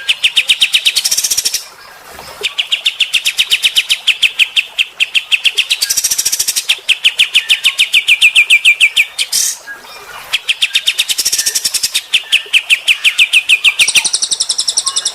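Songbird singing fast trills of rapidly repeated, sharp notes, in bursts of a second or two with short pauses between, several times over; from a recording of cililin and kapas tembak song.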